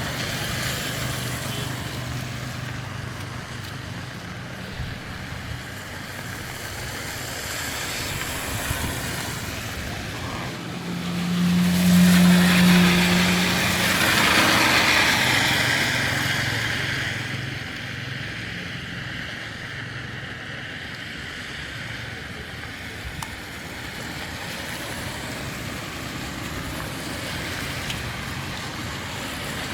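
Road traffic on a city street, with one vehicle passing close and growing louder from about 11 to 17 seconds in.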